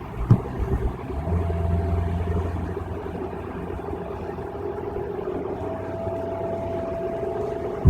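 Car cabin noise at freeway speed: steady engine drone and road noise, with a low hum that is strongest in the first few seconds and a faint steady whine later on. A sharp thump comes just after the start.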